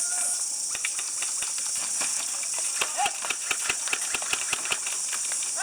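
Airsoft guns firing: a string of sharp clicks and snaps, quickest in the middle of the stretch, over a steady high hiss.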